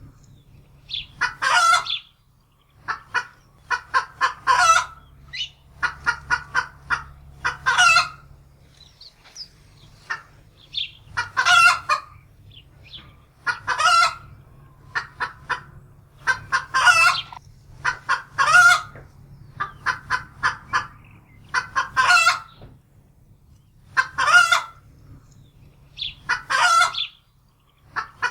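Domestic hen cackling in alarm: runs of short clucks, each ending in a loud drawn-out squawk, repeating every two to three seconds.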